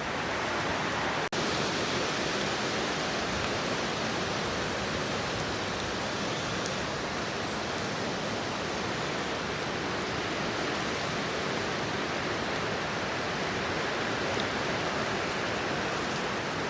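Steady rushing of flowing water from the glen's river and waterfalls, with a brief dropout about a second in.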